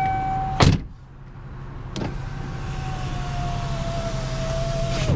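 A steady chime tone cut off by a sharp thud, then a 2001 Mercury Cougar's electric window motor whining for about three seconds, its pitch sagging slightly, stopping with a click.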